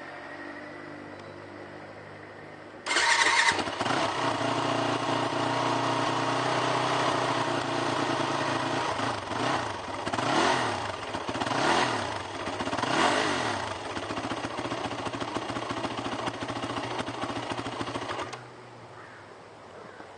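A 2006 Yamaha WR450F's four-stroke single-cylinder engine is electric-started and catches suddenly about three seconds in. It is revved up and down a few times, runs steadily, then is shut off about two seconds before the end.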